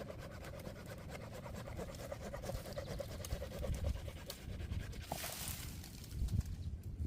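Hand saw cutting wood in a rapid run of rasping back-and-forth strokes that stops about five seconds in, with a few dull knocks near the end.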